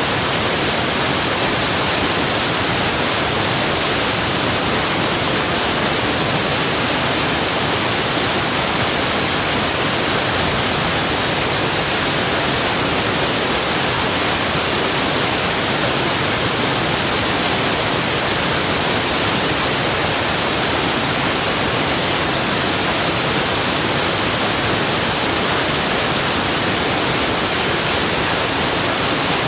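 Waterfall: a steady rush of falling water, an even hiss with no changes.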